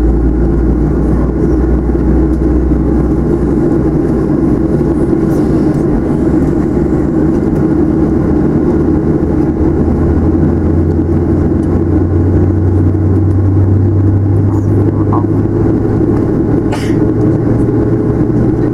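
Steady cabin noise inside a Boeing 737-700 with its CFM56 jet engines running, an even roar with a deep hum that shifts higher in pitch partway through.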